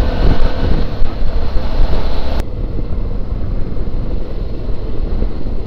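Wind rushing over the microphone and road and engine noise while riding a Suzuki V-Strom 650 motorcycle. About two and a half seconds in, the hiss drops off abruptly, leaving mostly a low rumble.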